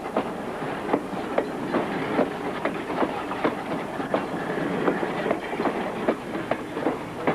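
Steam-hauled passenger coaches rolling along the track: a steady rumble with a quick, uneven run of clicks as the wheels pass over the rail joints.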